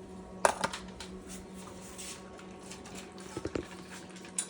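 A single sharp knock about half a second in, a few light taps a few seconds later, over a low steady hum.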